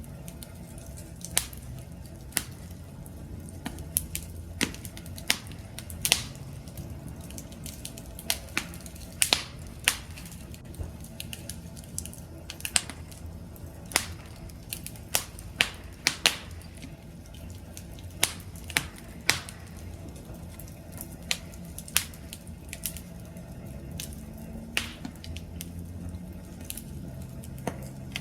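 Wood fire crackling: irregular sharp pops and snaps, a few each second, over a low steady rumble of flames.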